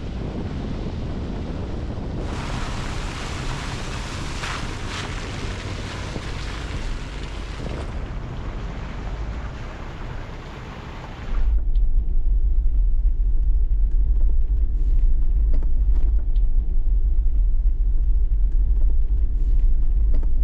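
Vehicle driving: a steady rush of road and tyre noise, then, a little past halfway, an abrupt switch to a louder, deep wind rumble on the microphone.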